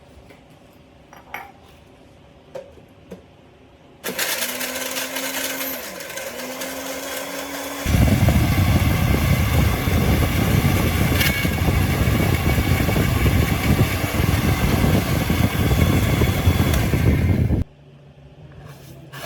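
Repaired electric blender test-run: after a few light clicks, the motor starts about four seconds in with a whine. About four seconds later it gets much louder and rougher, churning the jar's contents, then cuts off suddenly near the end.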